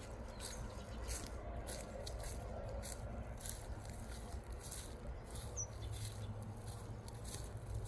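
Pet parrot making small clicking and scratching sounds, with a single brief high chirp about five and a half seconds in, over a low hum.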